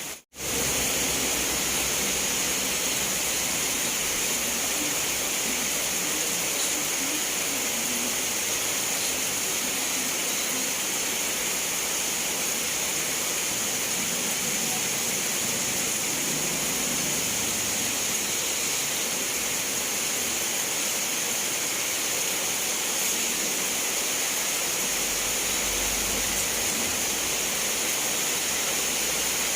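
Steady heavy rain, an even hiss of downpour. After a short gap right at the start it comes back louder and holds level.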